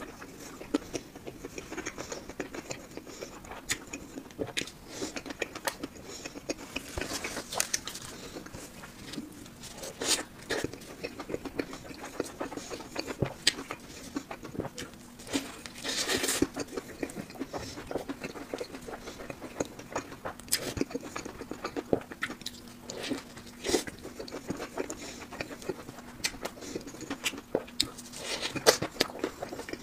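Close-miked eating of crispy fried food, a fried chicken sandwich and fried pieces: chewing with many small crackly crunches and a few louder bites.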